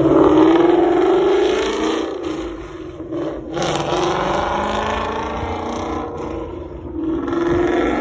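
Mustang GT's 5.0 V8 through Corsa Xtreme exhaust and Pypes high-flow catted headers, accelerating hard. The engine note climbs in pitch over a few seconds, drops back about three seconds in, climbs again, and dips once more near the end.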